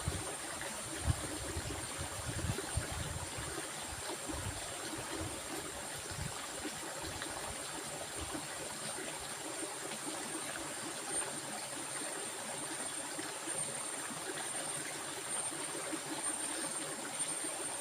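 A flowing stream, water rushing and babbling steadily, with a thin high steady hiss above it and a few soft low bumps in the first few seconds.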